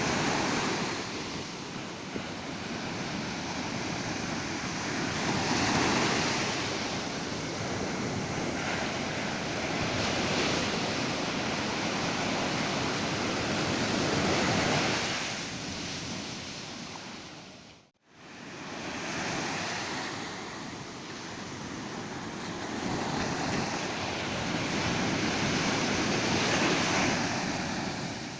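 Ocean surf breaking on a beach, waves swelling and washing in every few seconds. The sound dips to near silence for a moment about two-thirds of the way through, then returns.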